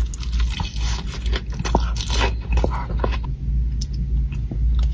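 Close-up eating sounds: crunchy food being bitten and chewed, with many irregular crackly crunches. A steady low rumble runs underneath.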